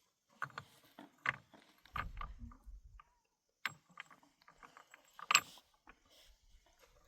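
Irregular sharp knocks and clatter of hard objects being handled, about a dozen of them, the loudest about five seconds in, with a short low rumble at about two seconds.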